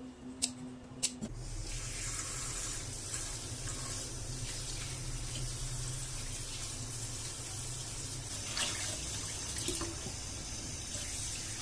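Two short clicks, then a kitchen tap turned on about a second in, running steadily into the sink.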